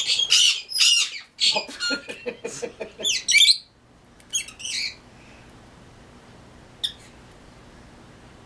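Pet parrots squawking, a rapid run of harsh, high calls over the first few seconds, then a single short call near the end.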